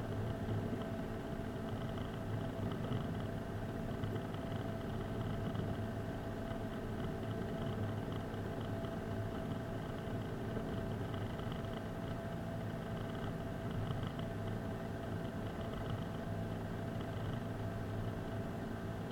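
Car running steadily: a constant engine hum with road noise, with no rise or fall in level.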